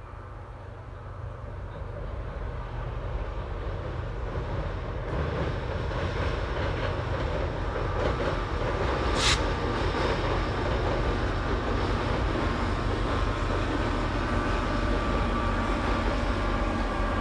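A Metro-North F40PH-3C diesel locomotive and its passenger coaches crossing a steel trestle viaduct. The engine and wheels grow steadily louder over the first several seconds as the train approaches, then run steadily as it passes.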